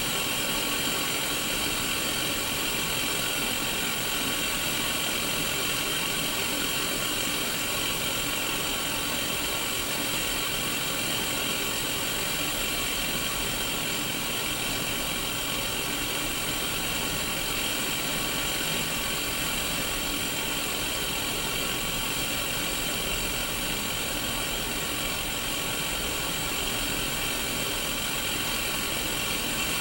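Static hiss from an untuned Sony Mega Watchman black-and-white mini CRT television: steady white noise, brightest in the upper-middle range, with faint steady tones running through it.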